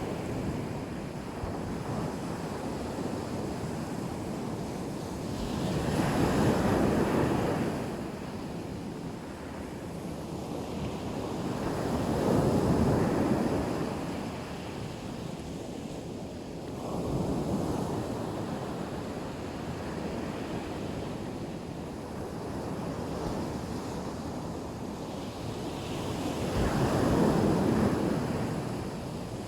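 Black Sea waves breaking on the shore: steady surf that swells into four louder surges of breaking water, each rising and easing over a second or two.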